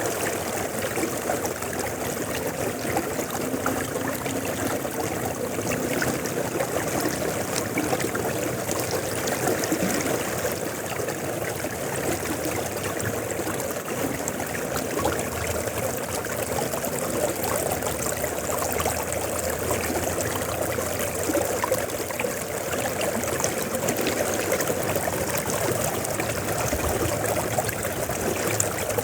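River water flowing steadily, a constant even rush and trickle with no breaks.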